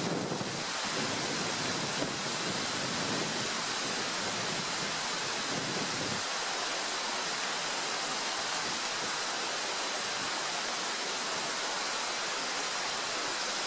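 Bacon and square sausage frying in a pan: a steady sizzling hiss with faint crackles.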